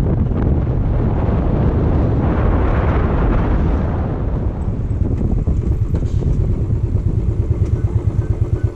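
Motorcycle engine running under way, with a haze of wind noise that swells and fades in the first half; the engine's rapid, even pulsing stands out more clearly in the second half.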